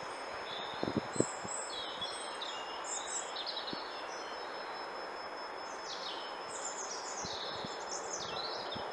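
Songbirds singing and chirping in woodland, with quick runs of high notes and trills, over a steady hiss of background noise. A few soft low knocks come about a second in.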